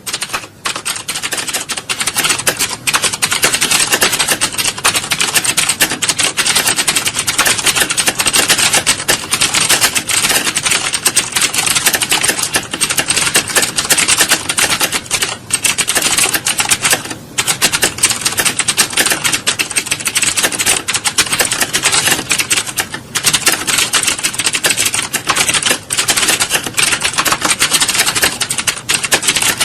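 Many computer keyboards being typed on at once: a dense, continuous clatter of key clicks with only brief lulls.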